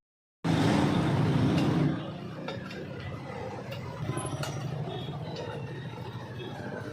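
Royal Enfield Bullet's single-cylinder engine running, louder for the first second and a half and then quieter, with light metallic clinks scattered over it.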